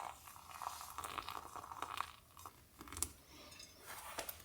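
Faint, irregular crunching with small clicks and crackles.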